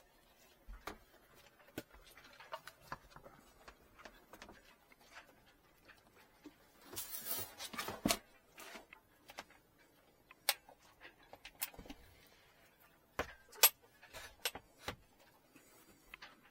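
Handling noises: scattered clicks and knocks, with a brief scraping rustle about seven seconds in and a few sharper knocks a little later.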